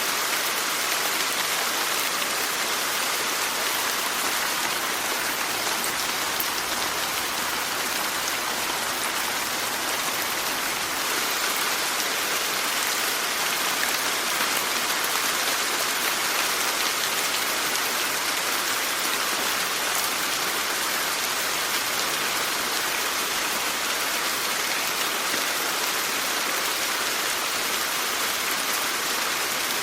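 Steady rain falling, an even hiss of many drops on surfaces with no letup or change in intensity.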